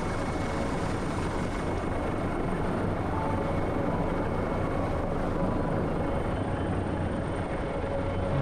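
Rescue helicopter's rotor and engine noise: a steady, unbroken drone.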